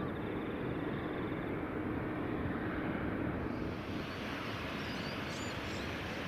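Jet airliner's engines roaring steadily during a takeoff, the sound growing brighter and hissier about halfway through. Faint bird chirps are heard near the end.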